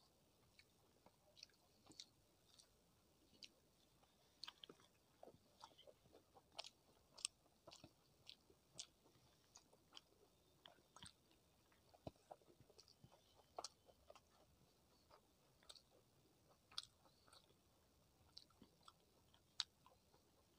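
Faint close-miked chewing with wet mouth clicks and smacks, an irregular scatter of short sharp ticks, as someone eats rice mixed with curry by hand.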